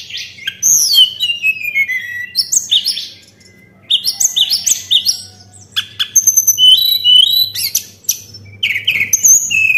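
Tledekan (blue flycatcher kept as a songbird) singing: fast, high, whistled phrases of sliding and stepping notes, in runs broken by brief pauses.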